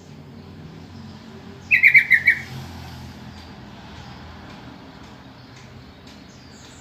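Sooty-headed bulbul call: one short, loud burst of about five quick notes about two seconds in, over steady low background noise.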